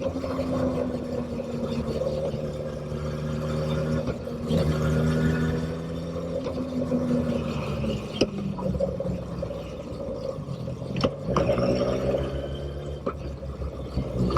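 Motorcycle engine running under way. Its note holds steady, dips briefly about four seconds in and falls from about eight seconds as the bike slows, then rises again near the end as it accelerates. A few sharp clicks sound in the second half.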